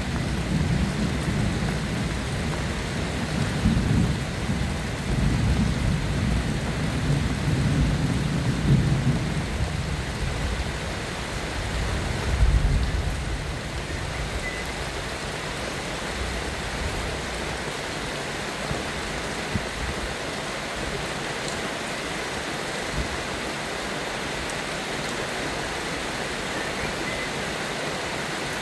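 Steady rain with thunder rumbling low through the first half, swelling once more about twelve seconds in, then dying away to leave only the even hiss of the rain.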